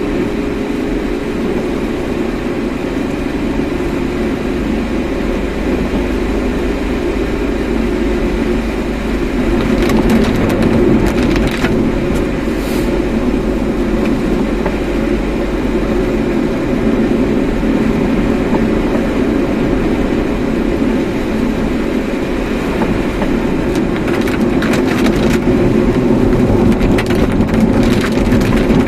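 A car being driven, with steady road and engine noise. Brief clicks and knocks come about ten seconds in and again near the end.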